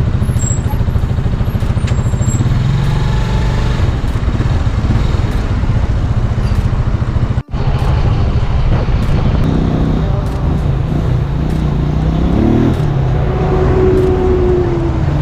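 Motorcycle engine running while riding, with steady road and wind noise. The sound drops out for an instant about halfway through.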